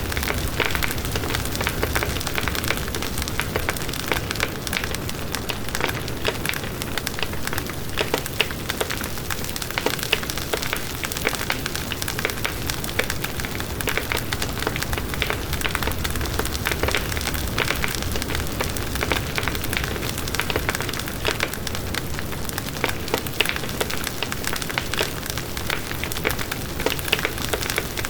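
Campfire burning: wood crackling in a steady, dense run of small snaps over a soft hiss.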